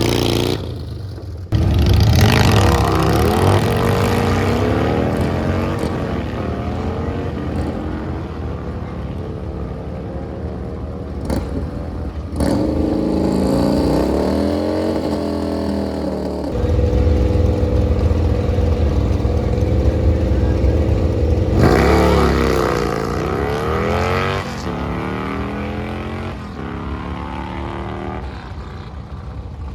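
Drag racing vehicles' engines at full throttle down the strip, the pitch climbing and falling again and again as they rev through the gears. Loud surges come about 2 seconds in, around 12 seconds and around 22 seconds.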